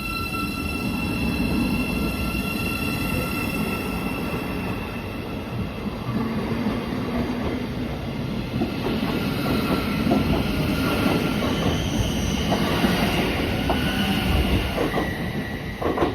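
A train running through a station: a steady high whine for the first few seconds, then continuous rumbling with wheel clatter and sharper knocks near the end.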